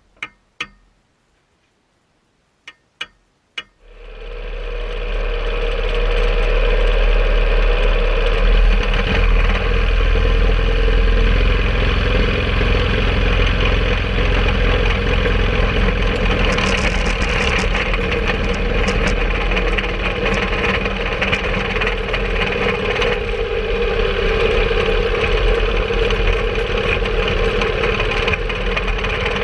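A few sharp clicks, then a home-made rail cart's motor and running gear set in about four seconds in and keep up a steady, loud running noise as the cart travels along the track.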